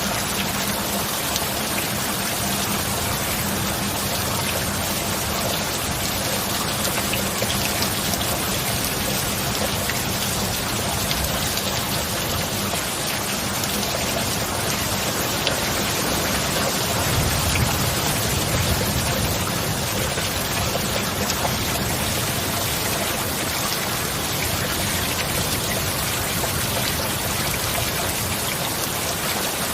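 Steady heavy rain falling without a break, with a low rumble swelling briefly a little past halfway.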